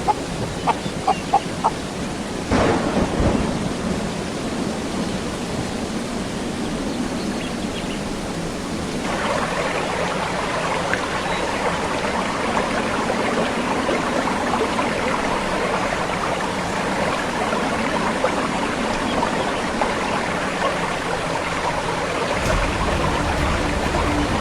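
Steady rain falling, heavier from about nine seconds in, with a sharp thunderclap about two and a half seconds in and a low rumble coming in near the end.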